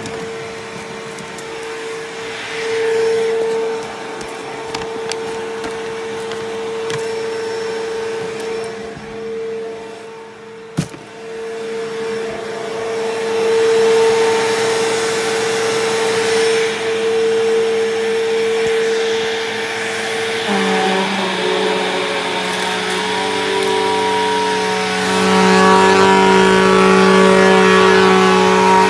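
Bissell CleanView 3574 upright vacuum cleaner running steadily with a constant motor whine. A sharp click comes about 11 seconds in. About 20 seconds in the sound changes: a lower hum joins and it grows louder.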